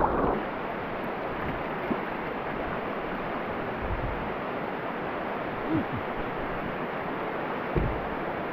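Steady rush of river water running through the shallow rapids of Lyman Falls, with a couple of soft low bumps in the second half.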